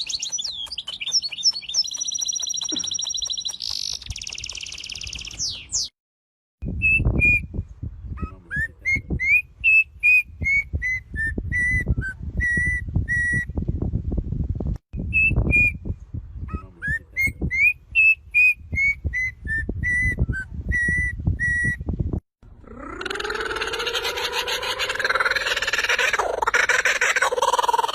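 Several different birds calling in turn: rapid high chirping, then a clear whistled song of short notes that rise and then fall and settle, sung twice, then a harsher, noisier call near the end.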